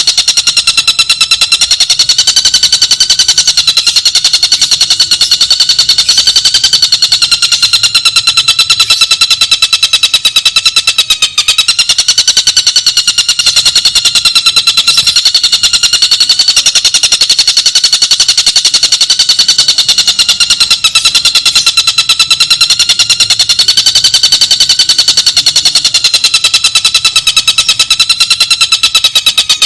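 Bird song from a bird-training recording: a loud, very fast, unbroken trill that wavers slowly up and down in pitch.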